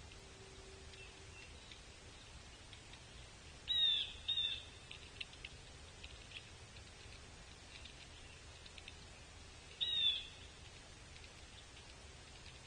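Short high bird calls, each with a quick downward hook: two close together about four seconds in, then one more near ten seconds. Faint scattered ticks come in between, over steady outdoor background noise.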